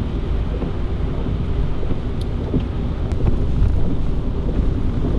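Car driving along a wet, flooded road: a steady low rumble of tyres on water and road.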